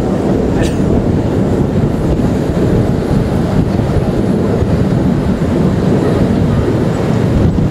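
Narrow-gauge passenger train running along the track, heard from on board at an open window: a steady rumble of wheels and carriage, with wind on the microphone.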